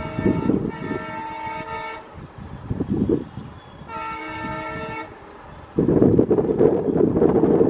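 Horn of an ALCo WDG3A diesel locomotive sounding in two blasts, the first ending about two seconds in and a shorter one about four seconds in. About six seconds in, a sudden loud rushing noise with wind buffeting the microphone takes over.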